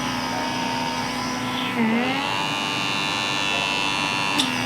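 Handheld HOPOSO pore vacuum (blackhead remover) running steadily on its highest, red setting: a high electric motor whine. Its pitch dips briefly about two seconds in, and there is a short click near the end.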